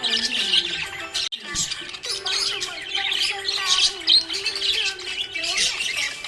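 Budgerigars chirping and warbling continuously in quick, busy bursts, with a melody running underneath. There is a brief break in the sound about a second in.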